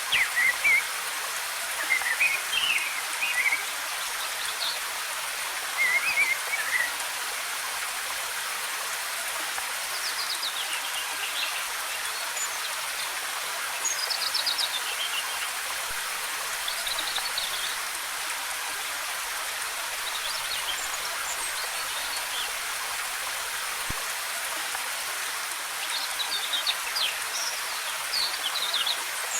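Steady hiss of a waterfall with forest birds chirping in short twittering phrases every few seconds, several of them falling in pitch.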